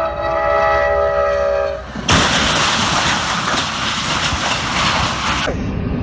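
Train horn sounding a chord of several steady tones for about two seconds, then cut off by a sudden loud rushing, rattling noise of a train on the rails that lasts about three seconds.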